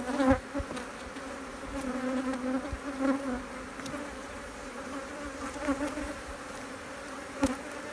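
Honeybees buzzing around an open hive during a frame-by-frame inspection: a steady hum that wavers slightly in pitch, with a few short sharp knocks.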